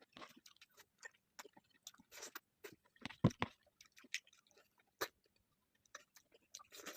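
Close-miked chewing and mouth sounds of a person eating: irregular wet clicks and smacks, with a louder, deeper one about three seconds in.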